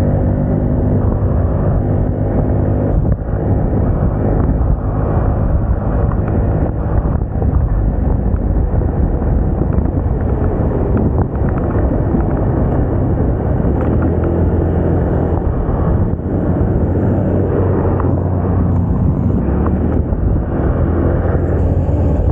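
Moda Moca 110 scooter's small engine running at a steady cruise while riding, its drone mixed with a constant rush of road and air noise. The engine hum stands out most clearly in the first few seconds.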